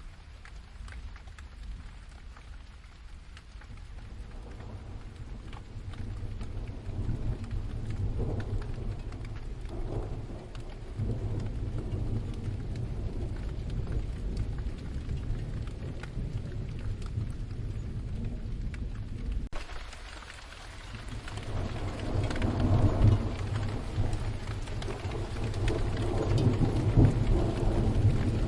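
Steady rain with rolling thunder. A low rumble builds a few seconds in and holds, drops away suddenly about two-thirds of the way through, then a louder roll of thunder swells near the end.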